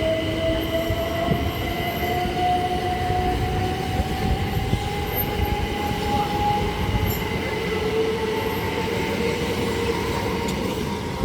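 Southeastern Class 375 Electrostar electric train pulling out and accelerating, its traction motors giving a whine that rises slowly in pitch and then levels off, over the steady noise of the wheels on the rails.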